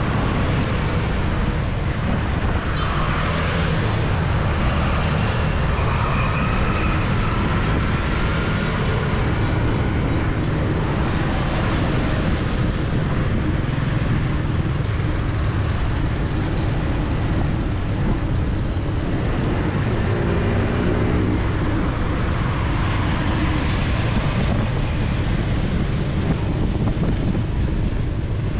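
Steady city street traffic: motorbike and car engines passing close by over constant road noise. Now and then an engine whine rises in pitch as a vehicle speeds up.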